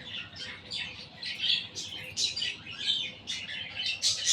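Young budgerigar chirping: a continuous string of short, high chirps, several a second.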